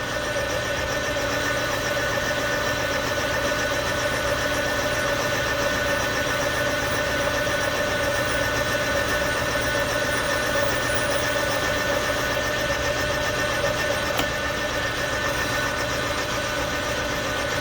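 Metal lathe running steadily under a light cut while boring out a pulley, a constant mechanical whine with a steady hum.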